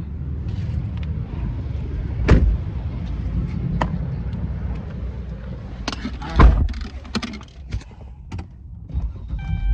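Car doors being shut: two loud thumps, about two seconds and six seconds in, over a steady low rumble of the car, with small clicks and rustling in between.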